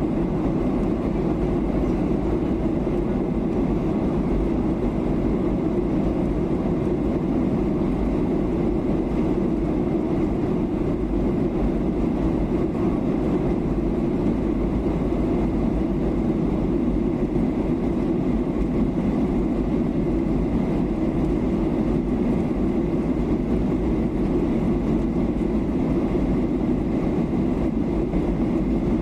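Steady cabin noise of a Boeing 737-800 in flight: the drone of its CFM56-7B turbofan engines mixed with rushing airflow, low and even with no changes.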